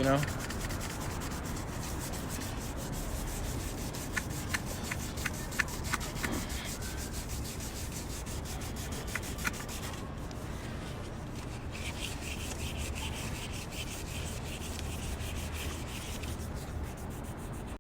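Sandpaper rasping steadily over a metal car wheel rim, sanding off the old glossy finish so primer will stick. A few sharp ticks come about four to six seconds in.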